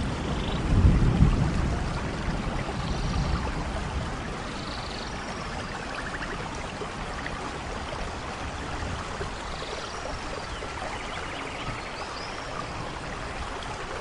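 Steady rain falling, with a low rumble of thunder about a second in that dies away, and faint high chirping calls here and there above the rain.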